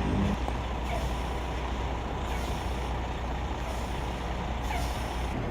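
Heavy military truck's diesel engine running steadily with a low rumble, with two short bursts of air hiss, about two and a half and five seconds in.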